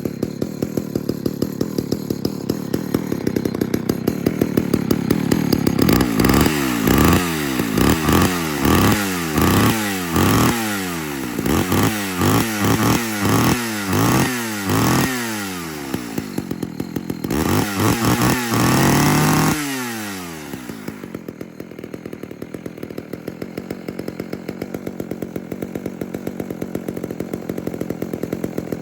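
Homelite Super XL two-stroke chainsaw idling, then blipped to full throttle about ten times in quick succession, then one longer rev, before dropping back to a steady idle.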